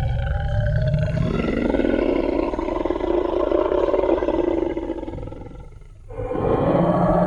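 Designed Tyrannosaurus rex roar sound effect: a long, rough, low roar that fades out about five and a half seconds in, then a second roar that starts about six seconds in.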